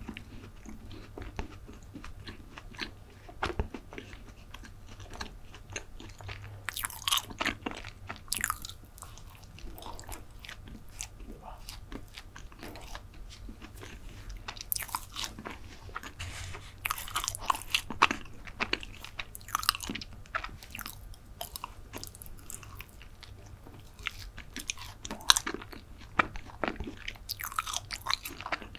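Close-miked biting and chewing of soft chocolate brownie: moist, sticky mouth clicks that come in clusters every few seconds.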